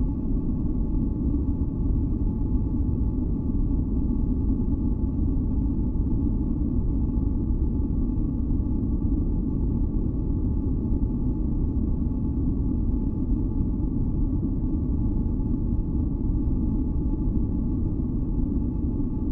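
Steady, unchanging deep rushing noise, with a few faint steady tones held above it: a continuous masking-noise track made for sleep and tinnitus relief.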